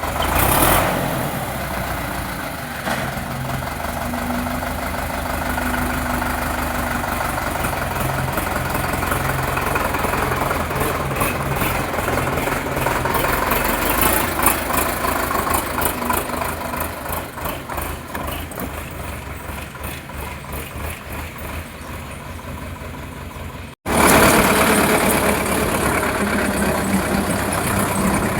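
Sonalika DI 750 tractor's diesel engine running steadily. It breaks off for an instant about 24 seconds in and comes back louder.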